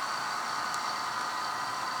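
Model railway diesel locomotive with a sound decoder, its small speaker playing a steady engine-running sound as it runs on the layout, with a faint click just under a second in.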